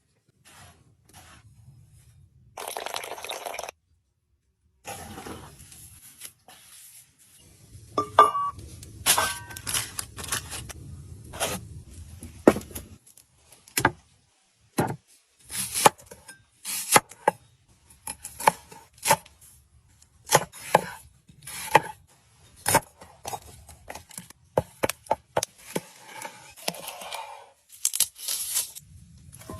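Irregular sharp clicks, knocks and cracks with short scraping and tearing noises, typical of food and utensils being handled during outdoor cooking.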